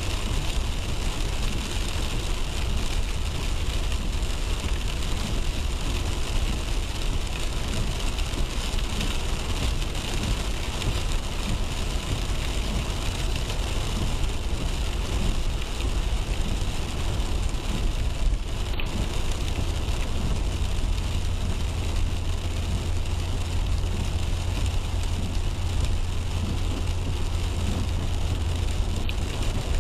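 Car driving on a wet road in the rain, heard from inside the cabin: a steady low rumble of road and tyre noise with a hiss of rain and spray.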